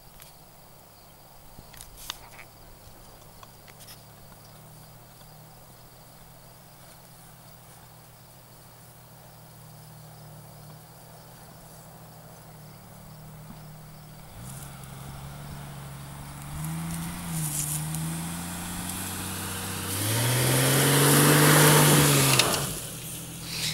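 Jeep Cherokee XJ engine driving off-road. It is faint and distant at first, then grows louder as the Jeep comes close, the revs rising and falling. It is loudest about twenty seconds in, where the engine note swells up and falls away with a burst of noisy rushing, then drops off sharply near the end.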